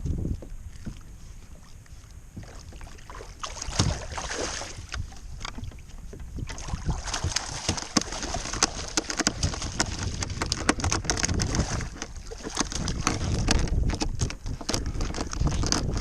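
Wind buffeting the microphone and water sloshing around a kayak, with many small clicks, knocks and splashes from about halfway through.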